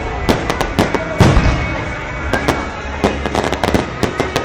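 Aerial fireworks bursting close overhead: a rapid string of sharp bangs and crackles, with one heavy, deep boom about a second in.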